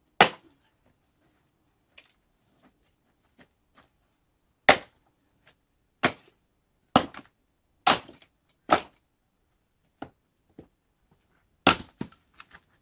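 Sharp chopping strikes of a splitting tool on pine logs: about seven loud cracks, irregularly spaced, coming roughly once a second in the middle. Fainter knocks of wood fall between them.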